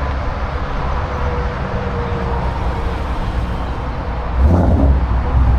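A car engine running with a steady low rumble, rising to a louder surge about four and a half seconds in.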